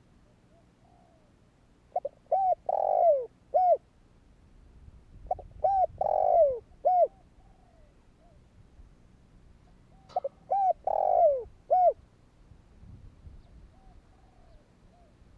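Spotted dove cooing: three phrases, each a few short coos around one longer falling coo, with faint softer coos between them.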